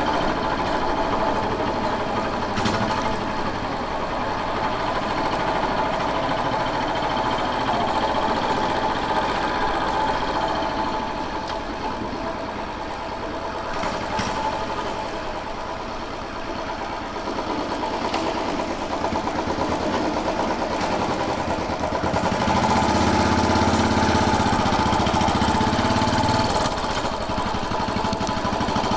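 Royal Enfield Bullet 500's single-cylinder engine running while the motorcycle is ridden. It eases off a little in the middle and swells louder for a few seconds near the end.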